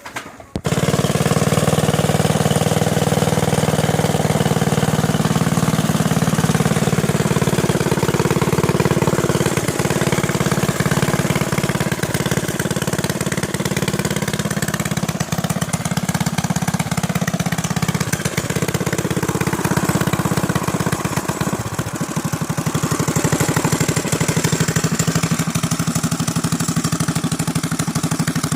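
Predator 212cc single-cylinder engine on a mini bike, fitted with a modified Isky cam, custom header and RLV muffler, starting up about half a second in and then running steadily, with small changes in engine speed partway through.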